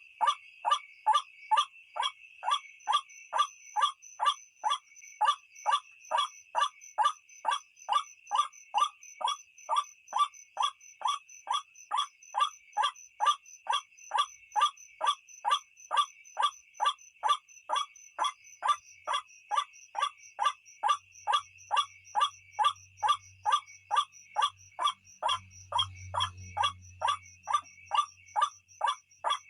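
White-breasted waterhen (ruak-ruak) calling, a fast, even run of harsh 'kwak' notes at about two a second that goes on without a break: the call used as a night lure.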